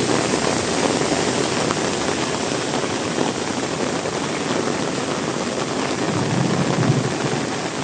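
Heavy rain falling steadily with gusting wind. A low rumble swells briefly about six seconds in.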